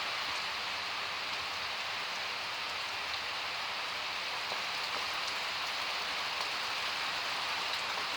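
Steady rain falling, an even hiss with light drop ticks.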